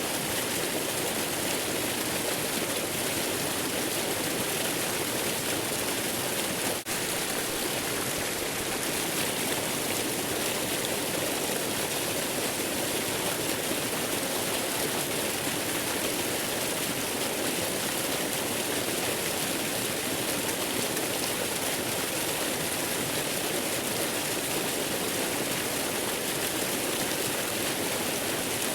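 Steady, unbroken rush of waterfall white-noise ambience, an even hiss of falling water. A brief click and dip in loudness come about seven seconds in.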